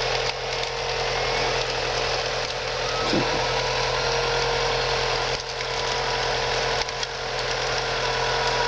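Vehicle winch running steadily under load while it pulls the vehicle through a stream, a constant whine over a dense grinding hiss.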